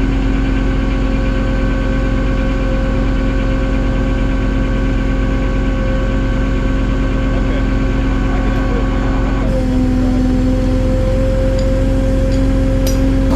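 A vehicle engine idling steadily, with a low rumble and a steady hum. The sound changes abruptly about nine and a half seconds in, as the higher part drops away.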